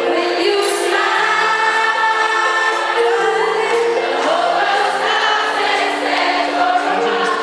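Many voices singing a song together in a choir-like sound, holding long sustained notes over accompaniment.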